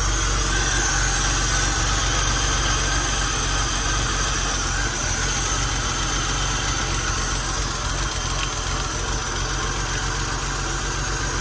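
BMW Z3 3.0's straight-six engine idling steadily, no revving.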